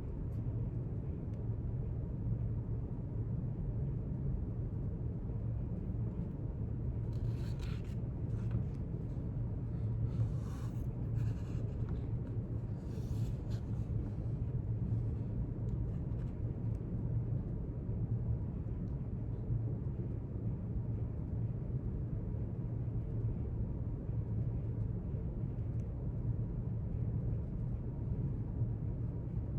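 Paper scratching and rustling in a few short bursts about a third of the way in, as in note-taking, over a steady low room rumble.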